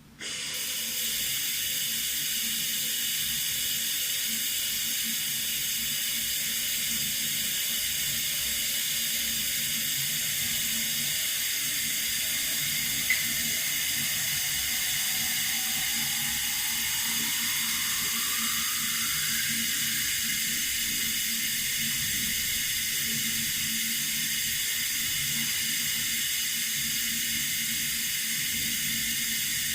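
Water running steadily from a tap, an even hiss. A short click about 13 seconds in, and soon after a faint tone that rises slowly in pitch.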